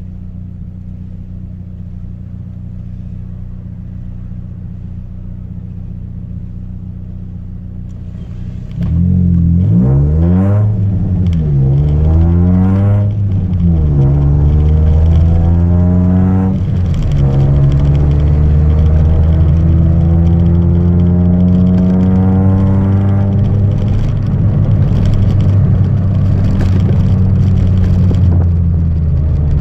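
Chevrolet Celta 1.0 four-cylinder engine breathing through a 4x1 header and a straight two-inch exhaust with no mufflers, running steadily at first. About nine seconds in it gets much louder as the throttle is blipped a few times, the pitch rising and falling, then it holds at a higher, fairly steady engine speed.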